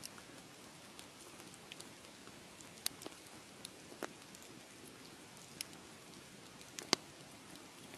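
Wood fire crackling: a steady soft hiss with sharp pops at irregular moments, the loudest about seven seconds in.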